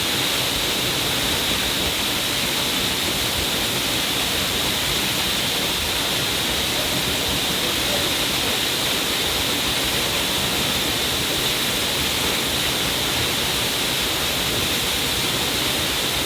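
A stream of water falling down a cliff: a steady, unbroken rushing and splashing hiss that holds one level throughout, brightest in the upper middle range.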